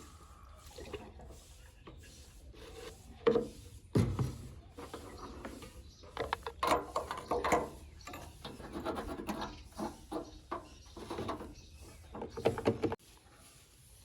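Dry compost being scraped and scooped by a miniature loader and poured into a toy trolley: irregular rasping and rustling with a couple of sharp knocks early on. It cuts off abruptly about a second before the end.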